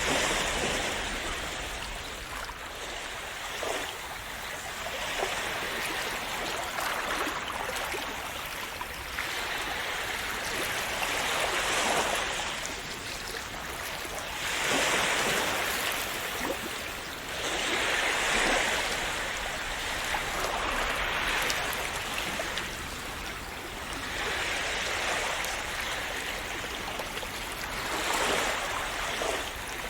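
Small sea waves washing onto a shore: a steady rush of water that swells and falls back every three to four seconds as each wave comes in.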